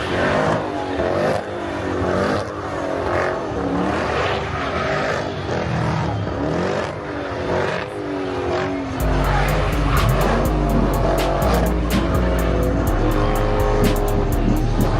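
Car engine revving with tyres squealing, its pitch wavering up and down. About nine seconds in, music with a heavy bass beat and quick hi-hat ticks starts over it.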